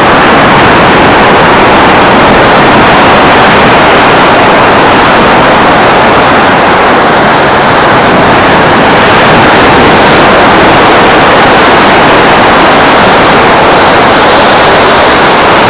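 Steady, loud rushing noise of beach ambience, wind and surf, with no pauses or separate events.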